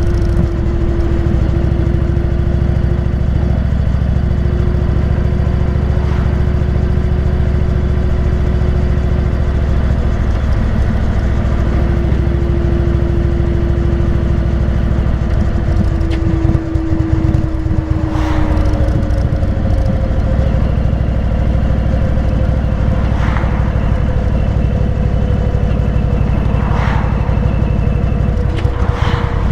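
Indian V-twin motorcycle engine running steadily while cruising; its note falls slowly, shifts to a new pitch about two-thirds of the way through, and a few short rasps come near the end.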